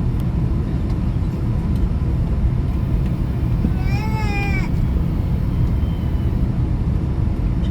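Steady low rumble of a jet airliner cabin with the engines running. About four seconds in comes one brief, high, wavering cry.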